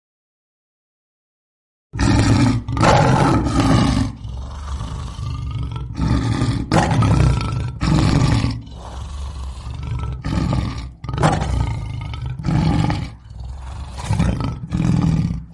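Lion roaring again and again in a string of loud roars, starting about two seconds in after silence.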